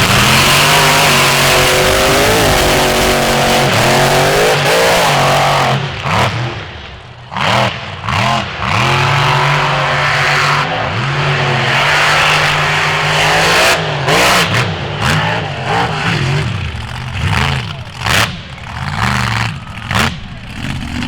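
Off-road vehicle engine running hard and revving up and down again and again. From about six seconds in, the level drops and surges in quick, repeated swings.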